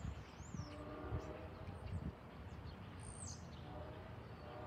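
Small birds chirping now and then, a few short high calls sweeping up and down with the clearest about three seconds in, over a faint low outdoor rumble with a few soft thumps in the first two seconds.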